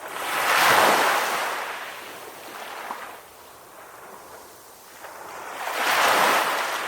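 Sea waves breaking on a shore: one wave crashes and washes out about a second in, and a second wave breaks near the end.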